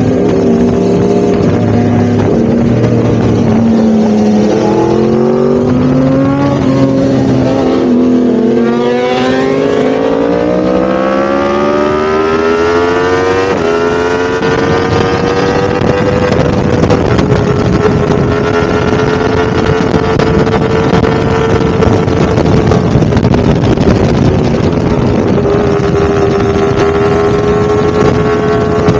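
Yamaha R1-M's crossplane inline-four engine running under load. Its note wavers low at first, climbs steadily in pitch from about a third of the way in to just past halfway, with a brief break in the climb, then holds a steady pitch.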